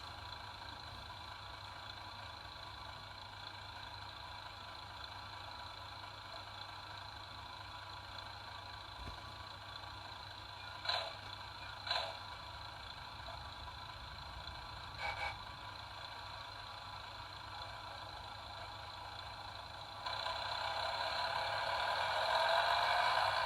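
Early 8-bit Digitrax sound decoder playing a class 108 diesel multiple unit's engine sound through the model's small loudspeaker. It idles steadily, with two short sharp sounds about halfway through and a quick double sound soon after. About 20 s in the engine sound steps up and grows louder, as if powering up.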